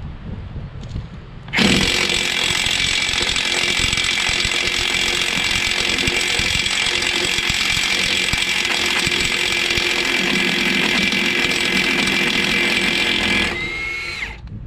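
Half-inch Ingersoll Rand cordless impact wrench hammering on a trailer wheel's lug nut for about twelve seconds, then its motor winding down. It didn't sound very good.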